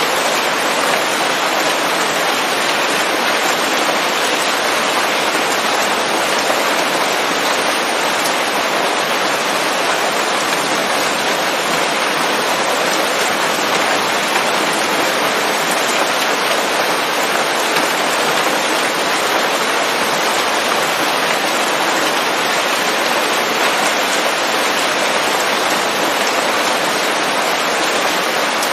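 Steady rain falling on leaves, an even dense hiss without a break.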